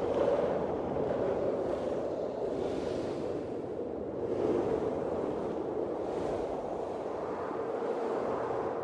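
Blizzard wind blowing steadily, swelling and easing in gusts every few seconds.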